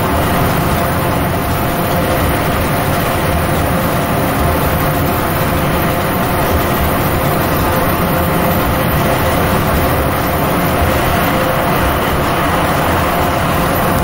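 Inside an airport people-mover train in motion: steady running noise, a rolling rumble with a faint steady hum.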